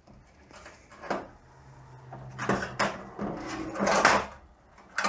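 Metal parts of a 42RE automatic transmission's clutch pack being handled and set down: a handful of separate clinks and knocks, the loudest about four seconds in.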